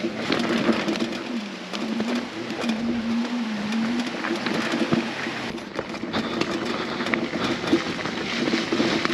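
Electric dirt bike riding on a dirt trail: the motor's whine rises and falls with the throttle over the noise of tyres on gravel and many small stone clicks.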